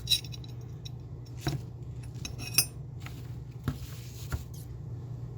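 Light metallic clinks and small rattles as a hand-forged railroad-spike steak flipper is handled, with a short ringing clink near the start and another a little past halfway, over a steady low hum.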